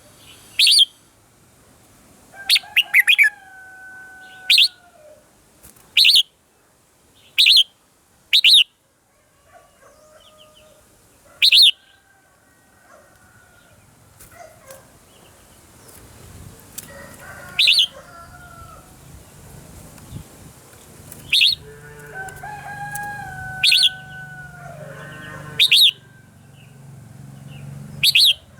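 Red-whiskered bulbul calling: short, sharp, high notes repeated every second or two, with a few longer, lower whistled phrases that slide down in pitch. A faint low hum comes in about halfway through.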